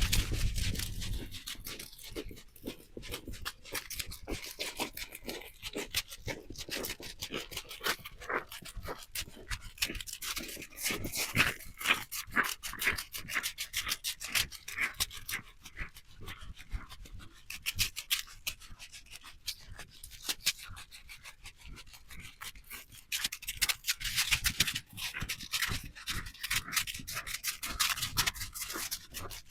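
Footsteps crunching on snow: a dense, uneven run of short crackles, louder in stretches around the middle and near the end.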